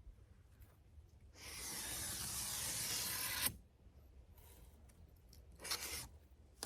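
A steady rasping hiss lasting about two seconds that cuts off sharply, followed by a shorter, fainter burst near the end.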